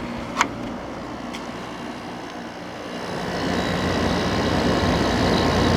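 Vintage Emerson Quiet Kool window air conditioner running, its compressor and fan giving a steady hum that sounds pretty nice. A single click comes about half a second in, and the sound grows louder from about three seconds in.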